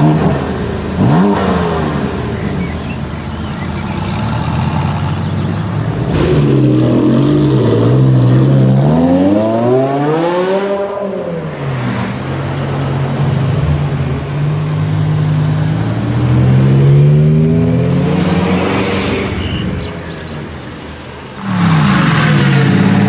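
High-performance car engines revving and accelerating, the pitch climbing and dropping several times through gear changes. A loud burst of revving comes in suddenly near the end.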